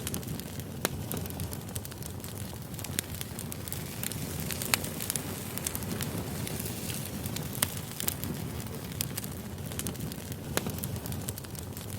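Wood campfire burning: irregular sharp crackles and pops over a steady low rumble of flame.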